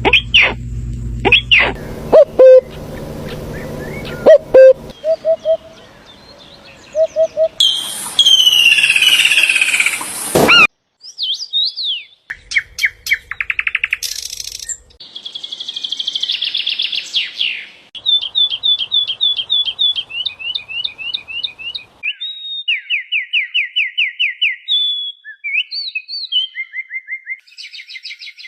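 A run of different bird calls and songs cut one after another, changing every few seconds: sweeping whistled calls, a loud dense burst of whistling about a third of the way in, then fast repeated chirps and trills.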